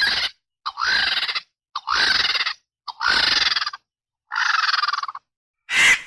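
Harsh, rasping bird calls, five in a row about a second apart, each under a second long and opening with a short rising note; a shorter, sharper call follows near the end.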